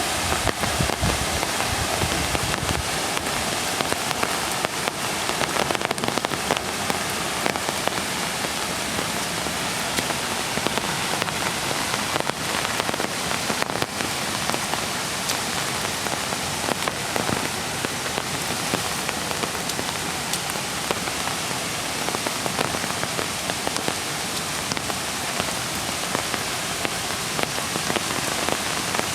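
Steady rain falling, many small drop ticks over a continuous even hiss.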